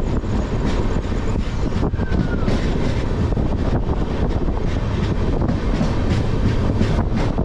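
Indian Railways express passenger train running at speed: a loud, steady rumble and rush of the coach's wheels on the rails.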